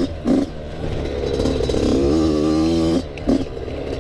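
Yamaha YZ85 two-stroke dirt bike engine revving in third gear, the throttle rolled on and off, with the revs rising and falling and easing off about three seconds in.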